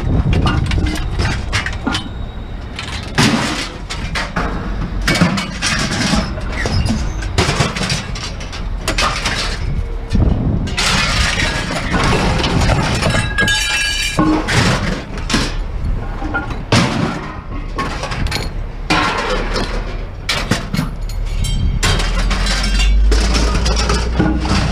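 Scrap being handled: a dense, irregular run of clanks, clatters and crashing knocks of hard objects, some with a glassy ring.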